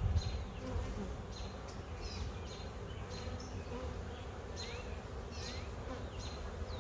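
Honey bees buzzing steadily around an open hive during a frame inspection, with short high chirps repeating over the hum.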